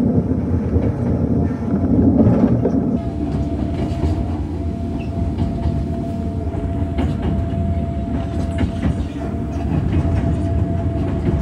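Hakone Tozan Railway electric train running along the track, heard from inside the driver's cab: a steady rumble of wheels on rail with clicks over the rail joints. A thin steady whine joins in about three seconds in.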